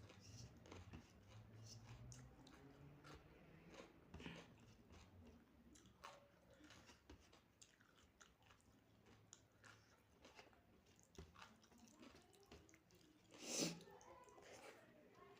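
A person chewing and biting food close to the microphone: soft, wet mouth sounds with some crunching, which fits mouthfuls of soya-chunk curry, rice and salad. A single louder, sharp knock comes near the end.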